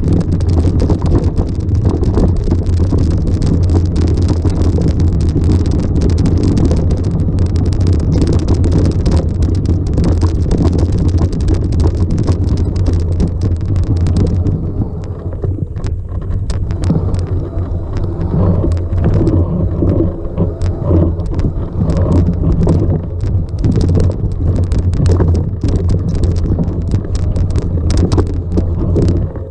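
Loud steady rumble with wind buffeting the microphone; the hiss thins out about halfway through while the low rumble carries on.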